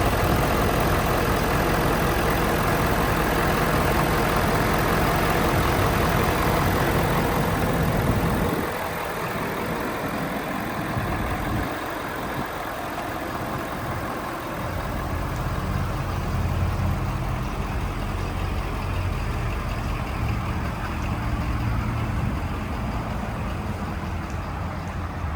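Ford F-250 Super Duty pickup's engine idling steadily with a low hum. It is loudest for the first eight seconds or so, then quieter with a couple of brief dips before settling again.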